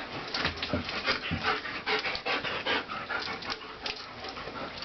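Large shepherd dog panting in quick, even breaths.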